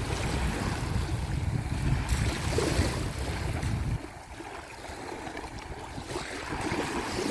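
Ocean surf washing on the shore, with wind buffeting the microphone in a low rumble that drops away suddenly about halfway through.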